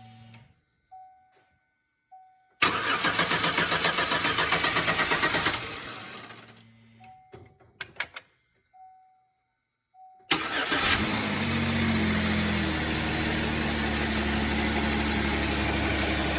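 GM 3400 V6 of a 2008 Pontiac Torrent being started for the first time after a cylinder head resurfacing and valve job. The starter cranks it in a pulsing rhythm for about three seconds, then dies away without the engine staying running. A few short electronic beeps follow. About ten seconds in it is cranked again, catches, and runs at a fast idle that gradually settles.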